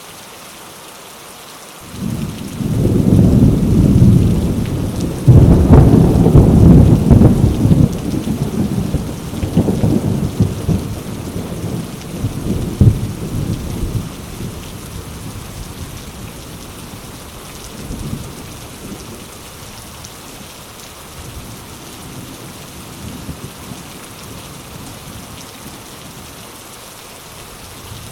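Heavy rain falling on mango leaves with a steady hiss. About two seconds in, a long roll of thunder builds, loudest around six seconds, then rumbles away over the next several seconds, with a fainter rumble later.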